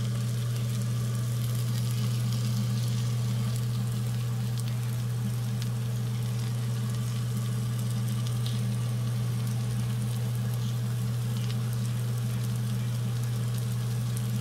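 Crab stick and egg stir-fry sizzling in a frying pan, with faint scattered crackles over a steady low hum.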